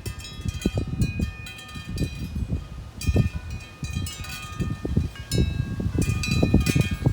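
Wind chimes ringing, many overlapping high tones sounding and fading, over a garden fountain's running water, with irregular low rumbles underneath.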